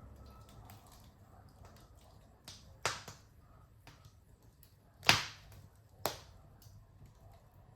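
Wood fire in a fireplace crackling, with sharp pops about three, five and six seconds in; the one near five seconds is the loudest. Between the pops there is quiet, steady burning with small ticks.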